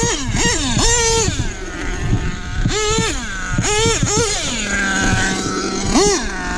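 Nitro engine of an HPI Savage RC monster truck revving in quick blips: the pitch jumps up and drops back again and again, a few revs held briefly. It settles to a steady idle about five seconds in, then revs once more near the end.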